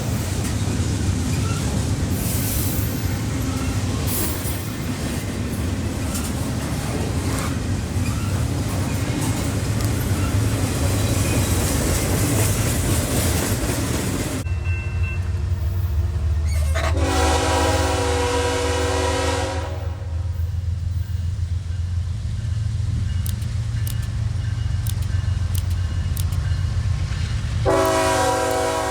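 Diesel freight locomotive rumbling past with loud rushing rail noise that cuts off about halfway in. The locomotive then sounds its multi-chime air horn: one long blast, and another starting near the end.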